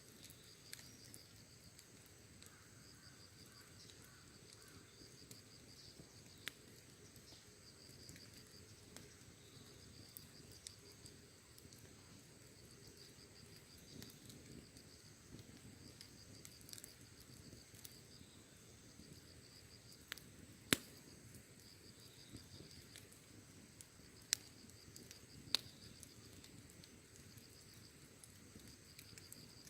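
Wood fire crackling softly, with scattered sharp pops, three louder ones in the second half. Behind it, insects chirp in steady pulsed trills with a constant high buzz.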